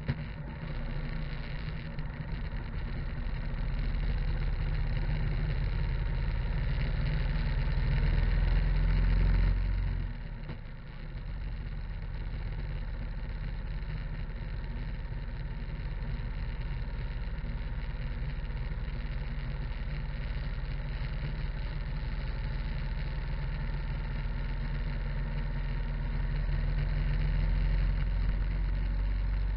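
Harley-Davidson V-twin engine running while the motorcycle rides along the road, with wind and road noise. The engine gets louder about eight seconds in, drops off suddenly near ten seconds, and builds up again near the end.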